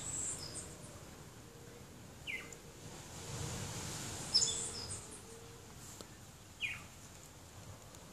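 Birds calling outdoors. Clusters of short, high chirps slide downward at the start and again about four seconds in, and a lower single falling note comes about two seconds in and again near seven seconds.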